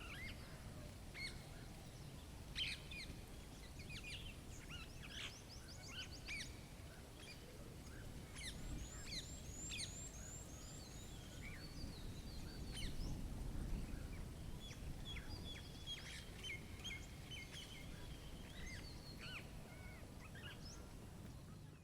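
Songbirds chirping and calling at several points, including a quick series of high, thin repeated notes, over a low steady rumble.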